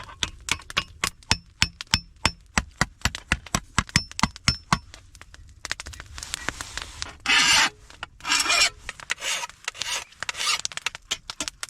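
A hammer striking thin 22 gauge sheet steel on a stump anvil in quick, even blows, about five a second with a faint metallic ring, turning up a lip on the griddle's edge. After about five seconds it gives way to several long, rough rasping strokes as the sharp edges are knocked off.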